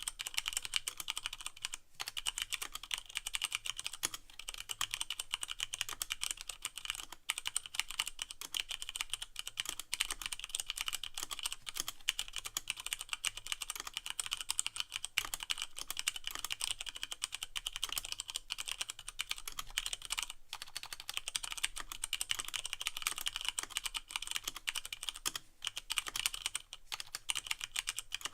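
Fast, continuous typing on a Leopold FC660M mechanical keyboard with Cherry MX Brown switches and no O-rings: a dense stream of key clicks and clacks of keycaps bottoming out, with a few brief pauses.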